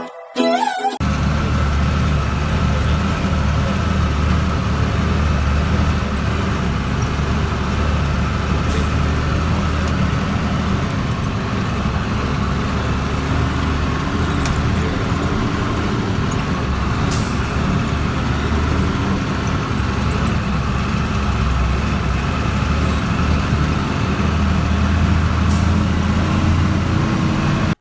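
Truck engine running with road noise while driving, a steady low drone that starts about a second in. Three short high hisses cut through it, about eight seconds apart.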